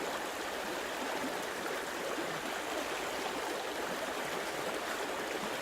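Running water of a stream, steady and even.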